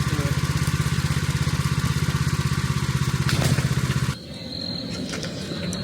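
Sawmill's small gasoline engine running steadily with a fast, even pulsing beat; about four seconds in it cuts off abruptly, giving way to a quieter mechanical sound with a thin high whine that gradually grows louder.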